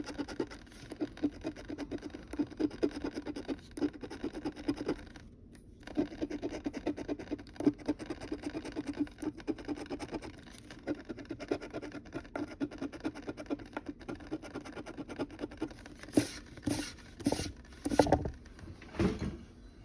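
Scratch-off lottery ticket being scraped: quick, rapid little scratching strokes over the card's coating, pausing briefly about a quarter of the way in, with a few heavier, louder strokes near the end.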